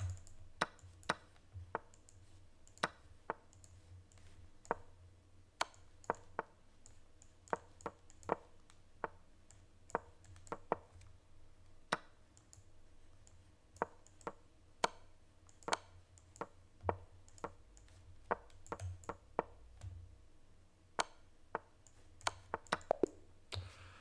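Sharp wooden clicks of online chess move sounds, coming quickly and irregularly, about one or two a second and bunching together near the end, as moves are made rapidly in a time scramble.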